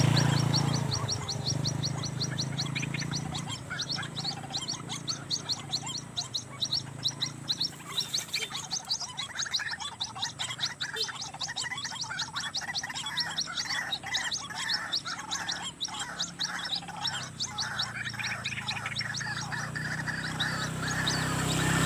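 White-breasted waterhen (ruak-ruak) calling: a run of fast, repeated croaking notes through the middle. Under it, a high-pitched chirping repeats several times a second through the first half.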